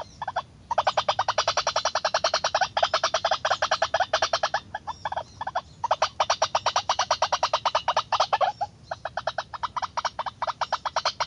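White-breasted waterhen call: a fast series of harsh croaking notes, about ten a second, in runs of one to a few seconds broken by short pauses.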